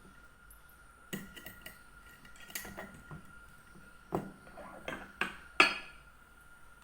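Kitchen dishes and utensils clinking and knocking together in a short irregular string of hits, the loudest one near the end.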